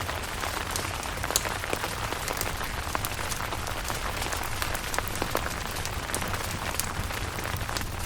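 Steady rain, with many individual drops ticking sharply on a surface; one or two stand out, about a second and a half in.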